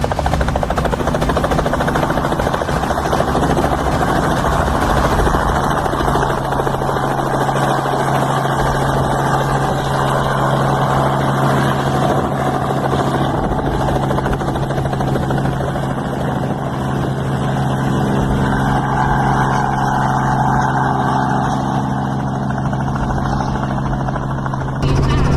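Helicopter running, its engine and rotor noise heard from inside the cabin as a loud steady drone.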